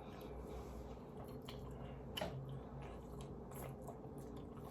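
A person chewing a mouthful of food close to the microphone: soft wet mouth sounds with a few short smacks, the clearest about two seconds in.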